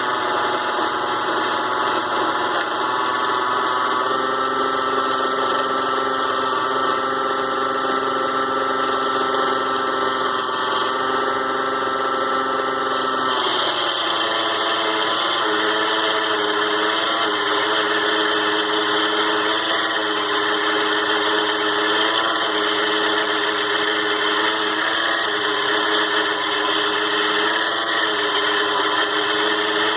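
6-in-1 mini lathe's DC motor running steadily with a whine while it turns aluminium stock. Its tone shifts about halfway through and wavers slightly after that.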